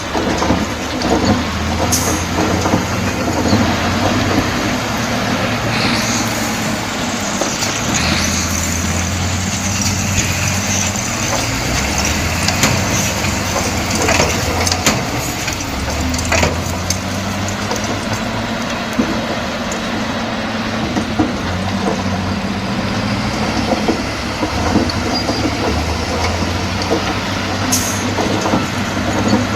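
Bulldozer's diesel engine running steadily, with frequent short clanks and knocks over it.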